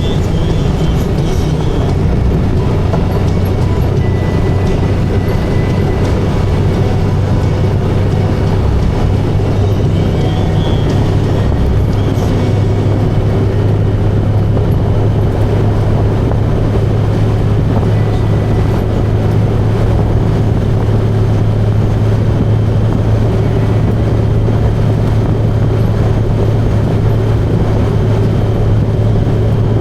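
Motorcycle engine running steadily while riding, a constant low drone with no change in speed.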